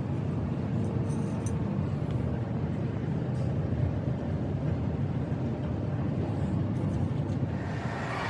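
Steady low rumble of a heavy engine or machine running evenly.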